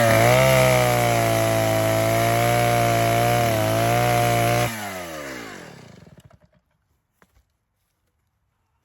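Gas two-stroke chainsaw held at high revs, cutting a small cedar post to length. About five seconds in the engine drops in pitch and winds down to a stop.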